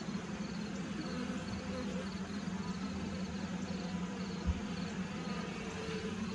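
Honeybees buzzing around an open hive, a steady hum of many wings, with a brief soft knock about four and a half seconds in.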